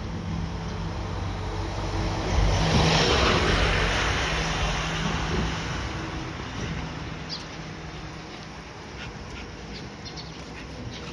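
A vehicle passing by on the road: its tyre and engine noise swells to a peak about three seconds in, then slowly fades away over the next several seconds.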